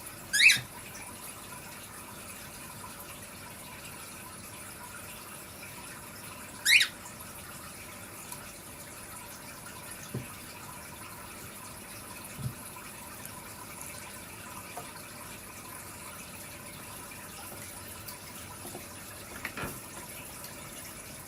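Cockatiel giving two short, loud calls that rise in pitch, one right at the start and another about six seconds later, over a steady background hiss.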